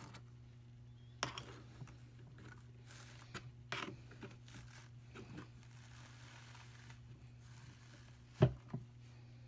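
Wool fibre on a hand-cranked drum carder with fine carding cloth, giving scattered short rustling and tearing sounds as the fibre is worked against the wire teeth. Two sharp knocks come close together near the end.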